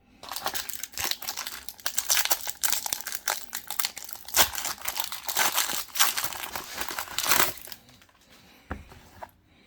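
Foil wrapper of a Pokémon trading-card booster pack crinkling as it is handled and torn open; the crinkling stops about three-quarters of the way through.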